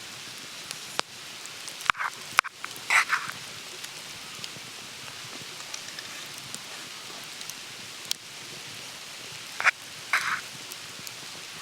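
Someone eating from a bowl: a few sharp clicks of utensils against the dish and several short scraping or slurping sounds, over a steady background hiss.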